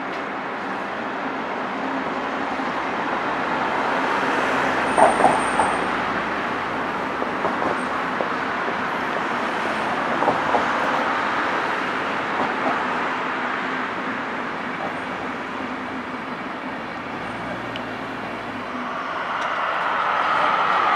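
Passenger train rolling slowly through a station's track field: a steady rumble with a few sharp clacks of wheels over points, about 5 and 10 seconds in. The sound grows louder near the end.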